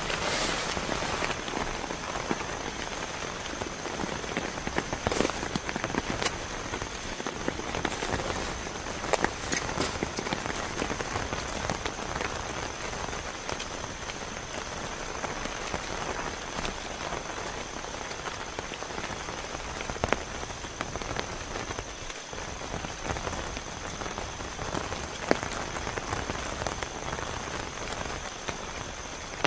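Heavy rain falling steadily, with scattered sharper hits of drops on nearby surfaces. A thin steady high tone runs underneath.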